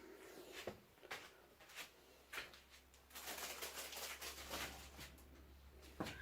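Faint handling noise from the recording device: a run of soft clicks and rustles while the zoom is being worked out, busiest from about three to five seconds in.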